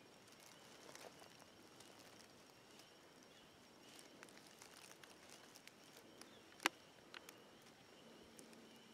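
Near silence with faint footsteps on the forest floor, scattered light clicks, and one sharper snap about two-thirds of the way through.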